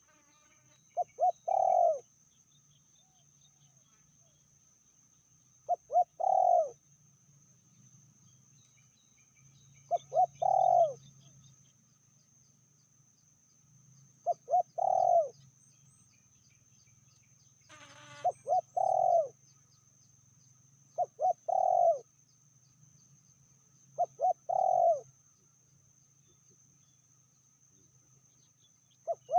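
Spotted dove (tekukur) cooing its phrase over and over, two short notes then a longer falling coo, about every three to four seconds. A faint steady high-pitched tone runs underneath, and there is one sharp click about two-thirds of the way in.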